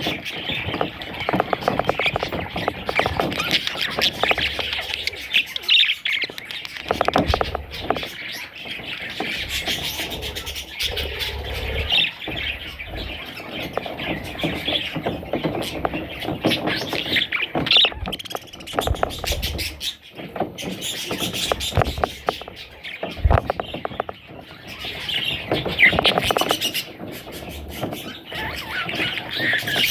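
Budgerigars chirping and chattering continuously, many rapid calls overlapping, with a few low bumps along the way.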